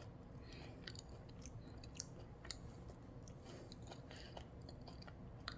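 Faint chewing of a bite of finger avocado eaten with its thin skin, with scattered small crunches from the skin.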